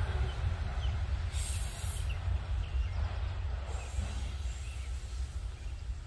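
Freight train rumbling past on the mainline, its low rumble slowly fading, with a few faint bird chirps above it.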